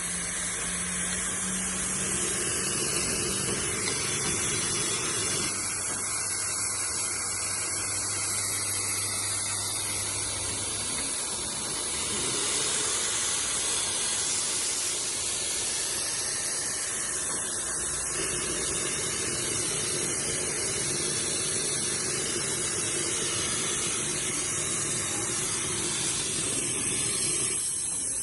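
Expobar espresso machine's steam wand hissing steadily, with a low hum for several seconds partway in.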